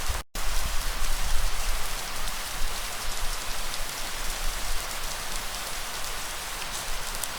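Steady rain falling, with a deep low rumble underneath. The sound drops out completely for an instant about a quarter second in.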